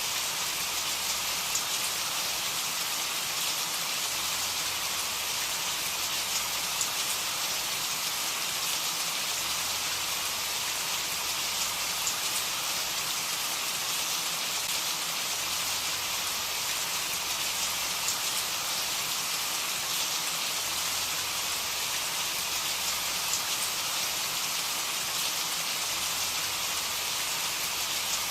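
Steady, even rain falling, a continuous hiss with faint scattered drop ticks.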